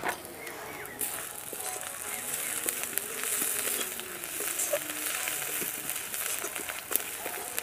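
Masala of crushed onion, ginger paste and spices frying in oil in a metal kadai: a steady sizzle with small crackles, and a metal spatula scraping and stirring against the pan. A sharp knock at the very start; the sizzle grows louder about a second in.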